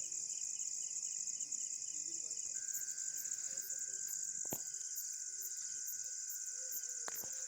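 Night insects calling in chorus: a dense, steady high trill throughout, with other trills layered over it and a lower trill joining about a third of the way in. Two short clicks stand out partway through and near the end.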